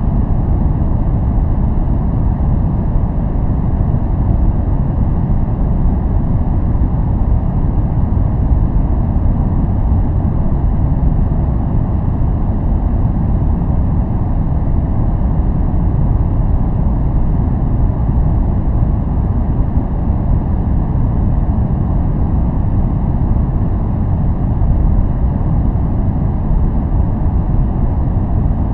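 Continuous noise track played for focus and relaxation: an even, unchanging deep rush weighted heavily toward the bass, with little hiss in the highs.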